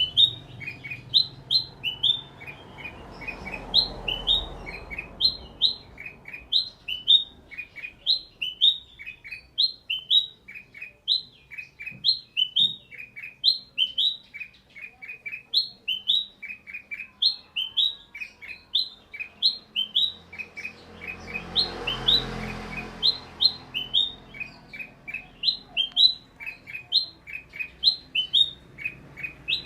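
Sooty-headed bulbul (kutilang) calling: short, bright chirps repeated in quick clusters of two to four notes, over and over. A faint rushing noise swells twice underneath, a few seconds in and about two-thirds of the way through.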